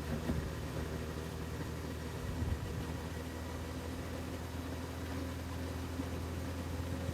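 Honda CB1000R's inline-four engine running at a steady, unchanging speed.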